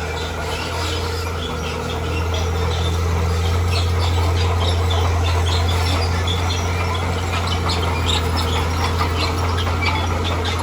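Diesel engine of a heavy earthmoving machine running steadily at a constant low pitch, growing slightly louder about two seconds in, with many short high-pitched chirps and squeaks scattered over it.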